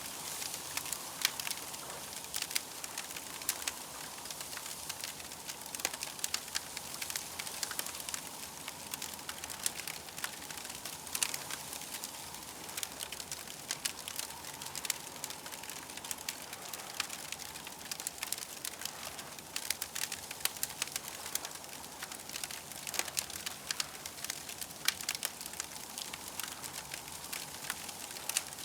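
Campfire crackling, with frequent small pops and snaps over a steady soft hiss.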